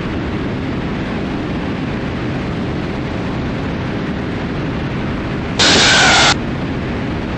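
Steady drone of the Cessna T310R's twin piston engines and airflow at climb power, even and unchanging. About three-quarters of the way through comes a brief, sharp-edged louder burst of hiss lasting under a second.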